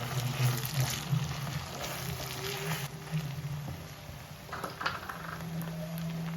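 Food sizzling in hot oil in a pan. The sizzle is loudest in the first three seconds, then eases off, with a few sharp clicks about five seconds in.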